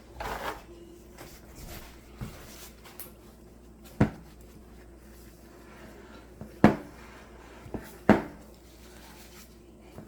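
Kitchen handling noises: a brief rustle at the start, then three sharp knocks about four, six and a half and eight seconds in, with fainter taps between them, like containers or a cupboard being handled.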